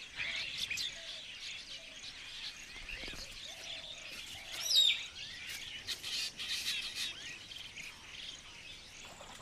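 Several small birds chirping and calling over one another in a steady chorus of short high notes, with one louder call sliding down in pitch about halfway through.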